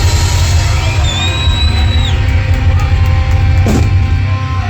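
Heavy metal band playing live: sustained, bending guitar notes over heavy bass and drums.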